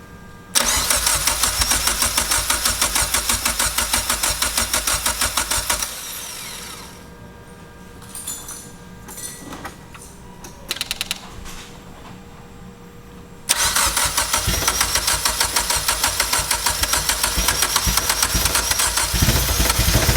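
Mitsubishi Evo X's turbocharged 2.0-litre four-cylinder being cranked over on the starter in even rhythmic pulses, without catching: one crank of about five seconds, a brief blip of cranking, then a second long crank. This is the first start attempt after a wiring-harness repair.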